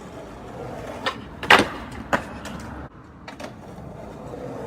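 Skateboard wheels rolling on concrete with a steady rumble, broken by several sharp clacks of the board; the loudest clack comes about a second and a half in, and the rumble drops away near three seconds.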